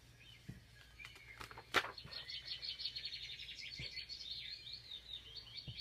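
Birds chirping in a fast run of short, high repeated chirps, which are taken for baby birds. A single sharp click sounds just before the chirping starts.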